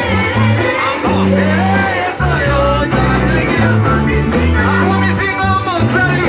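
Live church worship music: amplified band with a strong bass line and singing voices.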